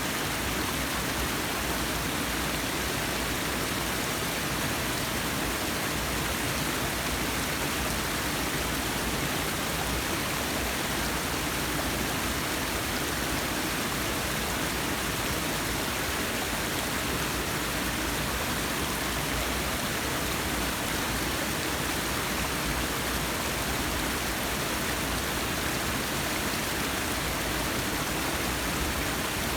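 Forest waterfall: water falling and rushing in a steady, unbroken roar.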